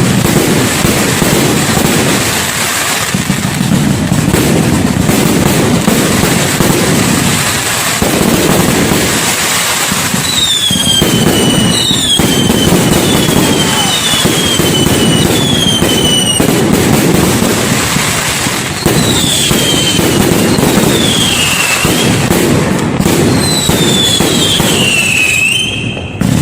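Fireworks display: a loud, dense, continuous barrage of bangs and crackling. From about halfway on, a series of short falling whistles rises above it.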